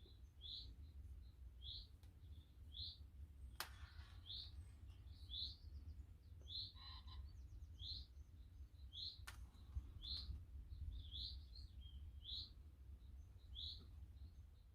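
A bird chirping over and over, one short high note about once a second, over a faint steady low rumble. Two sharp clicks come about a third of the way in and again past halfway.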